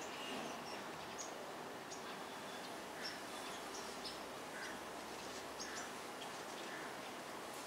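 Birds chirping: an irregular scatter of short, high chirps, with a few softer lower notes, over a steady background hiss.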